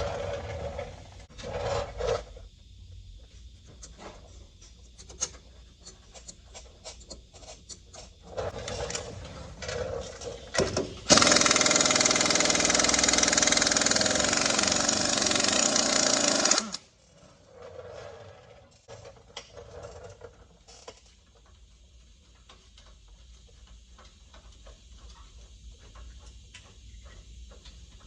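Pneumatic tool hammering in one loud burst of about five and a half seconds, a little under halfway in, after a few short bursts and clanks. Scattered light metal clicks follow it.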